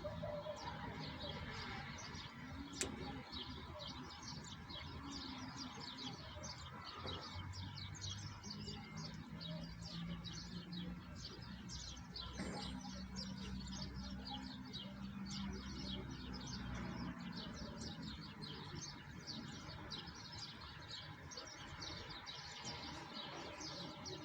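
Small birds chirping rapidly and continuously, many short high chirps overlapping, over a low steady background noise, with a single sharp click about three seconds in.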